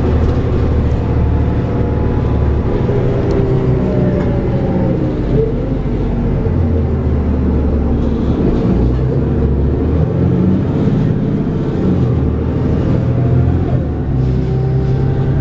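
Inside a New Flyer D40LF city bus: its Cummins ISL straight-six diesel and ZF six-speed automatic transmission driving, the engine's pitch rising and falling several times as the bus moves through traffic and changes gear.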